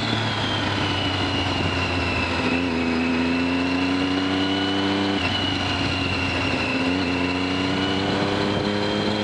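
Triumph sport motorcycle's engine running at low speed on the track, its note stepping in pitch several times and then rising slowly, with wind rush and a thin high whine over it.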